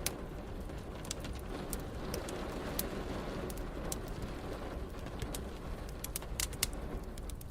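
Wood fire crackling, with irregular sharp pops and snaps, over a steady hiss of rain and a low rumble.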